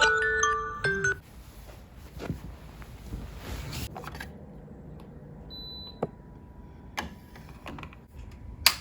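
A short chime melody in a glockenspiel-like tone ends about a second in. Then soft clicks and taps, a brief high beep near the middle, and one sharp click near the end.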